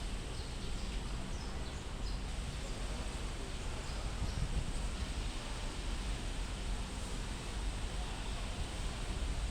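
Steady outdoor background noise, mostly a low rumble, with a faint thin high whine throughout.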